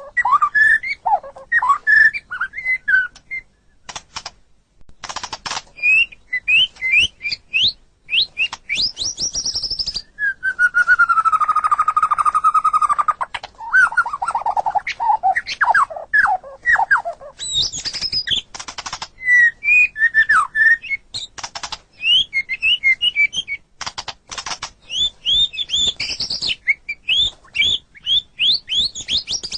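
White-rumped shama (murai batu) singing a varied song of fast whistled phrases, rising and falling glides and sharp clicking notes, with one long held whistle near the middle.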